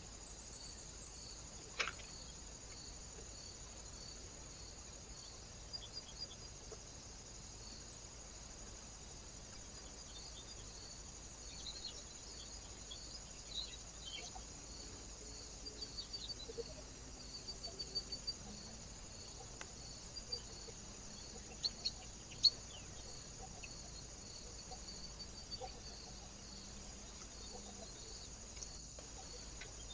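Small birds at a bird feeder: scattered brief high chirps and light taps over a steady high hiss, busiest around the middle.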